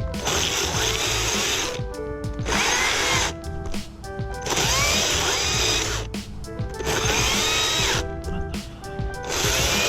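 Battery-powered Stihl MSA 161 T top-handle chainsaw cutting through a Douglas fir limb in about five runs of a second or so each, stopping briefly between them. Music plays underneath throughout.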